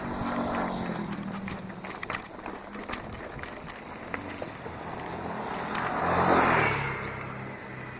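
A motor vehicle engine running steadily, swelling to its loudest about six seconds in as it comes close and then fading, over scattered sharp clicks and rattles.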